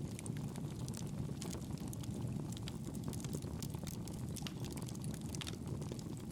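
Campfire burning with a steady low rumble of flames and frequent small, sharp crackles and pops from the burning wood.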